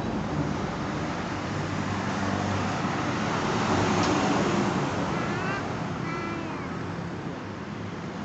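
Heavy truck running along a highway, its engine and tyre noise growing louder about four seconds in as it passes, over steady road traffic. A few short rising high-pitched calls are heard a little after the midpoint.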